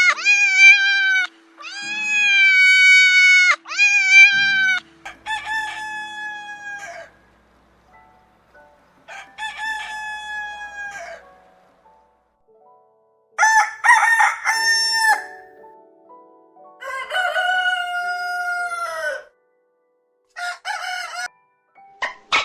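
Roosters crowing: a series of about eight long crows with short pauses between them, differing in pitch from one crow to the next.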